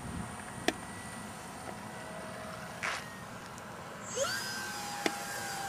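Electric motor of an RC model Cessna spinning back up from idle about four seconds in, a rising whine that settles into a steady whine as throttle is added for a go-around. Before that there is only faint low background noise with two sharp clicks, the louder one about half a second in.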